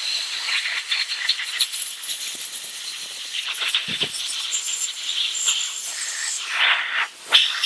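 Insects chirring steadily in a dense high-pitched drone, with a soft knock about four seconds in and brief scraping sounds near the end.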